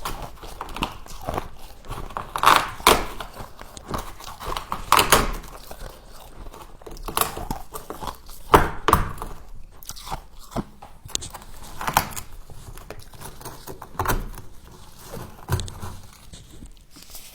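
Close-up biting and chewing of ice frost: irregular crisp crunches a second or two apart, some much louder than others.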